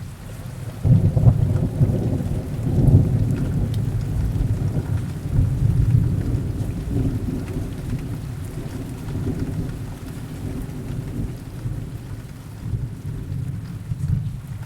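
Thunder rumbling through heavy rain. A low rolling peal swells up about a second in and rolls on, slowly fading, over the steady hiss of the rain.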